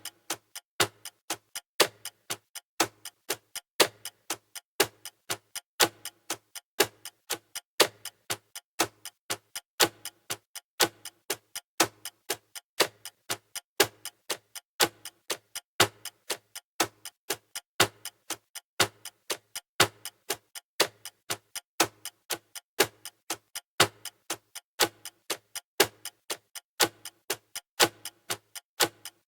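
Clock ticking sound effect: sharp, evenly spaced ticks, about two a second, going on steadily.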